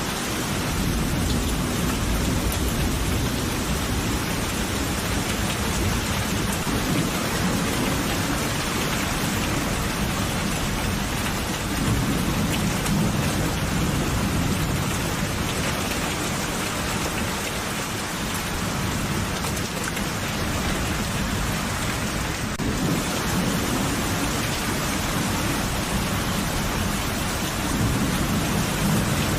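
Steady heavy rain, with low rolling thunder swelling and fading several times.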